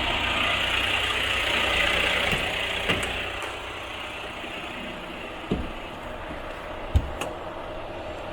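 Volvo FH 460 truck's 13-litre straight-six diesel idling steadily, its hiss easing about three seconds in. Three short thumps come through, the loudest near the end.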